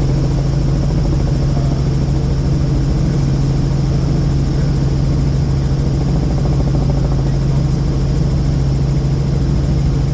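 Helicopter in flight: steady turbine and rotor drone with a strong, even low hum and a fast low beat from the rotor.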